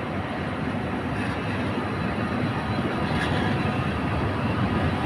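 Passenger coaches of a historic train rolling slowly along the platform on a shunting move: a steady low rumble that grows a little louder.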